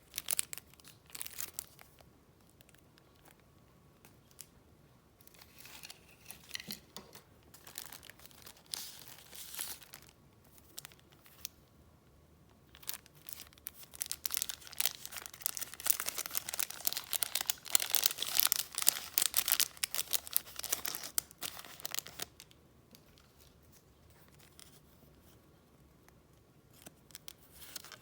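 Paper and packaging being handled close up: rustling, crinkling and tearing, in short spells at first and then a loud, dense stretch in the middle lasting about ten seconds, going quiet near the end.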